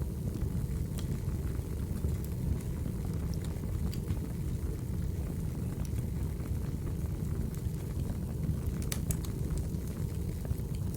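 Crackling firewood fire: a steady low rumble of burning wood with scattered sharp crackles, a quick cluster of them about nine seconds in.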